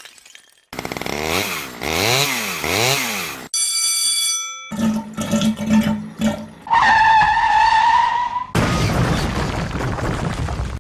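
A string of short, unrelated sound effects played one after another, each lasting a second or two: a noisy sound with repeated rising and falling pitch sweeps, a steady ringing tone, a busier patch with a low hum, a pitched tone that drops and then holds, and finally a rushing noise.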